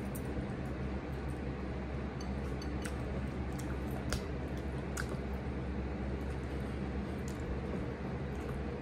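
Close-miked eating of a soft flour-tortilla shrimp taco: wet, squishy chewing with a few sharp clicks and smacks spread through, over a steady low hum.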